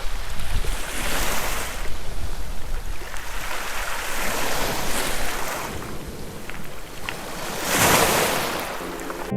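Sea waves washing ashore, swelling three times, the loudest near the end, with wind rumbling on the microphone.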